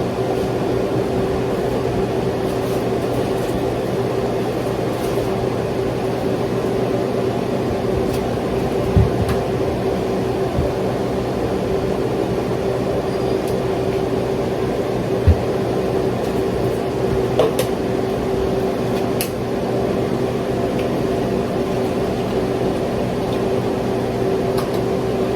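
Steady mechanical hum of a running kitchen appliance's motor and fan, one even tone over a whir, with a few faint knocks.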